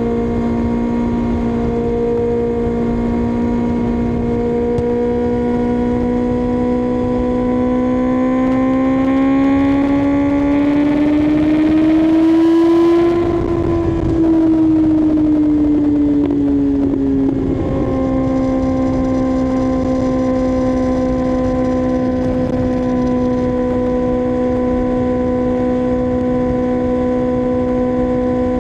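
Kawasaki ZX-6R's inline-four engine running at steady cruising revs with wind rush underneath. Partway in the revs climb gradually for several seconds, then ease back down and settle steady again.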